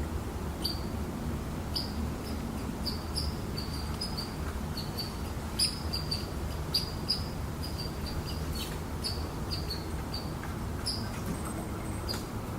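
A bird giving short, high chirps over and over, irregularly about two a second, against a steady low background rumble.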